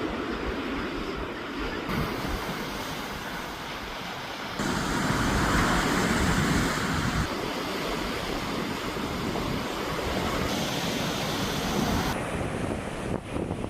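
Sea waves washing on the shore, with wind rumbling on the microphone. The tone and level shift abruptly several times, about two, five and seven seconds in and again near the end.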